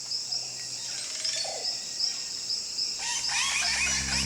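Rainforest ambience: insects chirping steadily at a high pitch, about three chirps a second, with a burst of bird calls about three seconds in.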